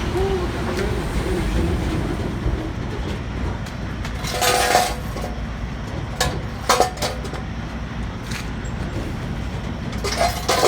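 Semi-truck's diesel engine idling with a steady low rumble. Over it come a short hissing burst about four seconds in and several sharp clunks after it.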